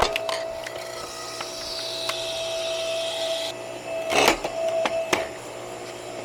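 Electric hydraulic log splitter (MGT-M8, 8-ton, 2600 W) running with a steady motor hum as its ram forces a log onto the wedge. The wood cracks sharply at the start and again about four seconds in, and a high hiss that builds from about two seconds in cuts off suddenly.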